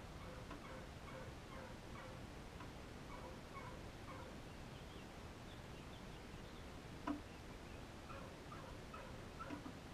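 Faint bird calls: many short chirps or clucks, a few each second, with one sharp knock about seven seconds in.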